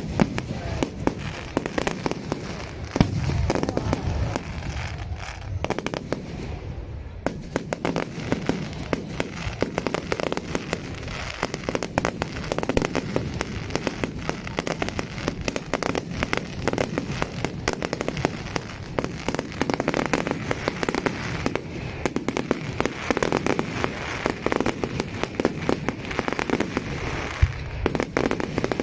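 Fireworks display: a continuous barrage of rapid bangs and crackling.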